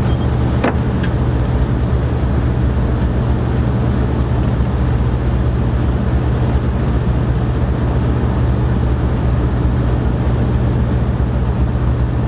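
Steady low mechanical hum of a running motor, unchanging throughout, with one sharp click about a second in.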